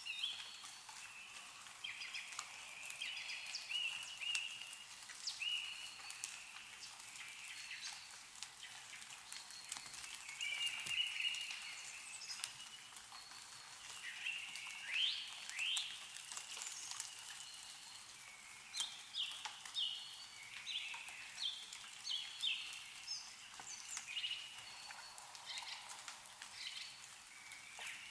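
Birds chirping in short, repeated calls, with scattered drips of meltwater falling from snow-laden trees.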